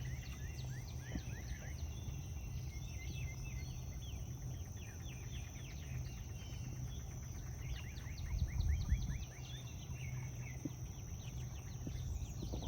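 Birds chirping over and over in short calls, over a steady high insect drone and a low wind rumble that swells briefly near the end.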